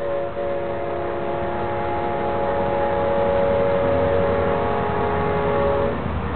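Amtrak locomotive horn holding a long chord of several notes, which cuts off about six seconds in, over the low rumble of the passing train.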